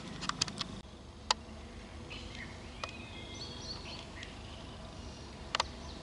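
Faint bird chirps and short whistled calls from about two seconds in, over steady outdoor background noise. Several sharp clicks come in the first second, with another a little later and a pair near the end.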